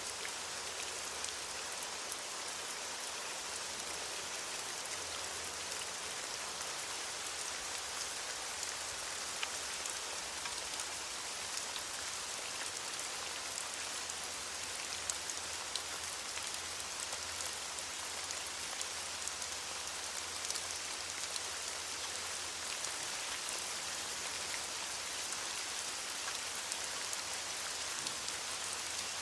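Steady rain falling on leaves, an even hiss with many small drop ticks scattered through it.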